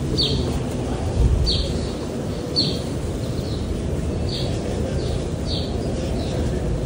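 A small bird chirping: short, downward-slurred chirps repeated about once a second. They sound over the steady low murmur of a large crowd in a big hall.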